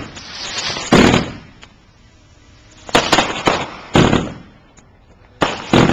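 Fireworks going off: about six sharp bangs at uneven intervals, the first about a second in and two close pairs later on, each with a short echoing tail.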